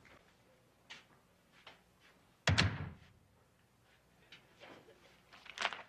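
A door shutting with one loud thud about two and a half seconds in, between a few lighter knocks and movement sounds.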